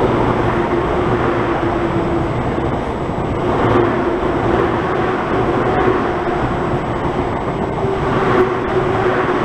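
Electric multiple-unit passenger train passing along the platform: a steady rumble and rattle of wheels on the rails, with a steady hum over it.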